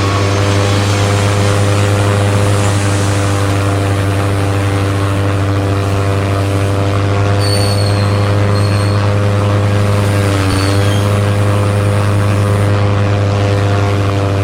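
Battery-operated toy aeroplane running, its engine sound a loud, steady droning hum that wavers briefly about ten seconds in.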